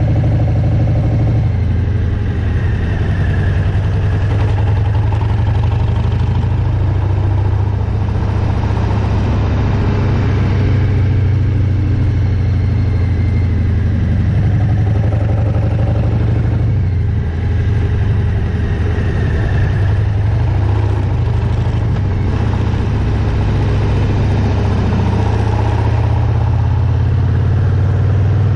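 Harley-Davidson Milwaukee-Eight V-twin motorcycle engine running under way on a winding road. Its pitch rises and falls a little with the throttle, and there is a brief dip in level about two-thirds of the way through.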